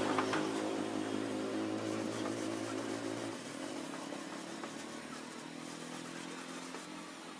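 An engine running steadily. About three seconds in its note changes and it grows gradually quieter.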